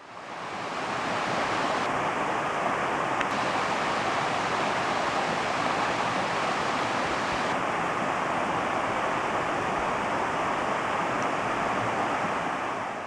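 Steady, even rushing noise, like running water, fading in over the first second and fading out at the end.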